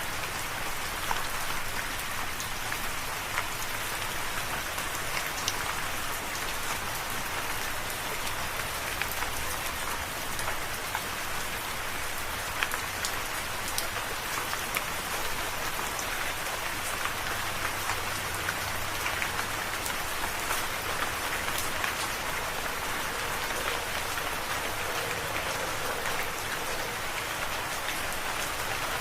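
Steady rain falling, a constant hiss of rainfall with many individual drops ticking sharply on a surface.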